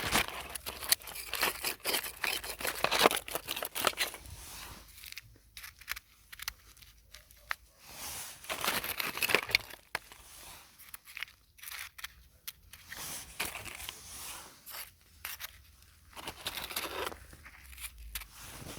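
Dry plant material crackling and tearing in irregular bursts, dotted with sharp clicks, with short quieter pauses between the clusters.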